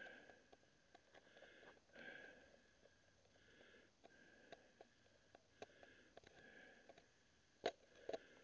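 Faint bird calls repeating about once a second, with a few soft clicks over them.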